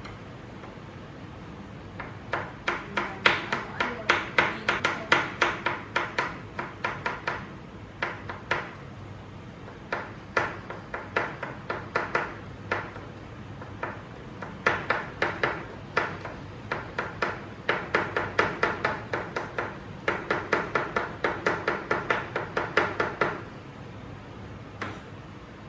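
Rapid runs of hard knocking strikes, about four a second, each with a short ring, repeated in several spells a few seconds long with brief pauses between.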